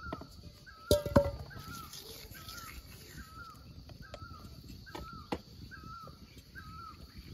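A bird repeats a short bending call a little more than once a second. Sharp metallic knocks come from the aluminium pressure cooker's lid and clamp being handled, the loudest about a second in and another near five seconds.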